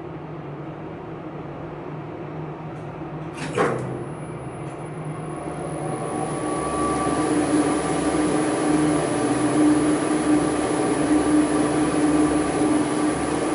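Elevator machinery in its machine room humming steadily, with a sharp click about three and a half seconds in. The machine then grows louder over a couple of seconds and runs on with a steady mix of whine and hum.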